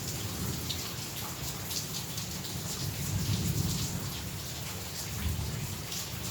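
Heavy rain falling steadily, with many individual drops striking a surface, and low rumbles of thunder that swell around the middle and again near the end.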